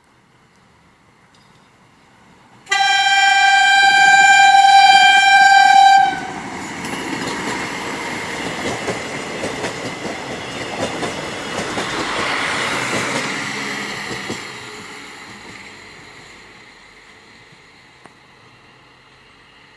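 RA2 diesel railbus sounding one loud horn blast of about three seconds, then passing close by with wheels clattering over the rails, the noise peaking and fading away.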